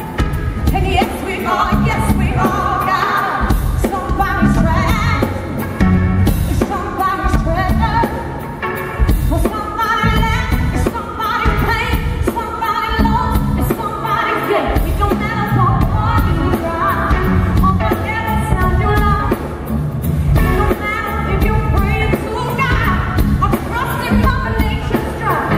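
Live soul band playing with a woman singing lead over a steady beat and heavy bass.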